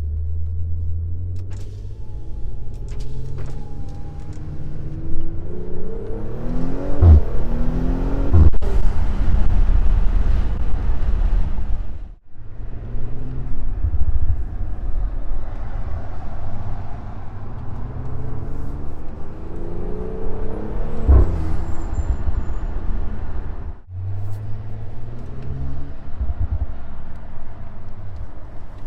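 Audi S4's turbocharged 3.0-litre V6 through an Armytrix aftermarket exhaust with the stock downpipe, revving up twice with the engine note climbing, with short sharp cracks at the top of each climb, then settling back to a deep steady drone.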